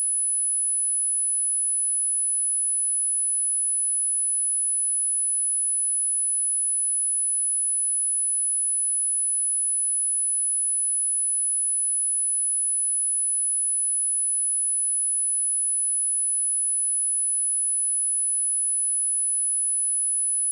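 Steady 10098 Hz sine-wave test tone: a single constant high-pitched pure tone, used for testing speakers and headphones and for clearing dust and water from speakers.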